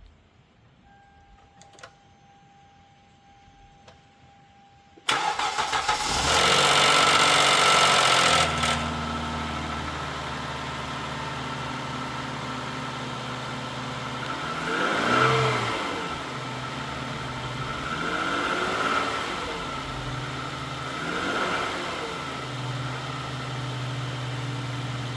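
Car engine cranked over about five seconds in, catching at once and running at high revs for a few seconds before settling to a steady idle. It is then blipped three times, each rev rising and falling, and returns to idle. The engine is presented as an example of rod knock.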